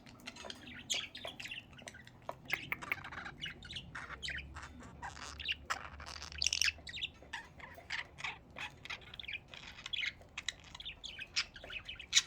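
Several budgerigars chirping and warbling together in quick, overlapping chatter, with the odd harsher squawk.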